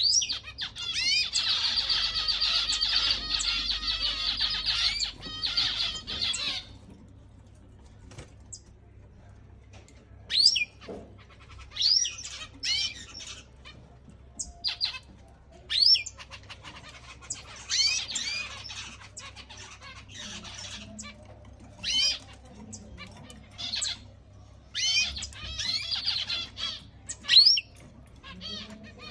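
Canaries singing and calling: a long run of fast warbling song at the start, then scattered short rising chirp calls, with two shorter bursts of song later on.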